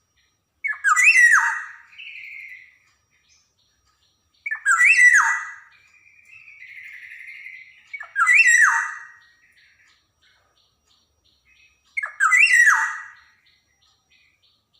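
Black-naped oriole (kepodang) calling: four loud calls about four seconds apart, each a sharp rising note with a falling tail, and a quieter, softer call after each of the first two.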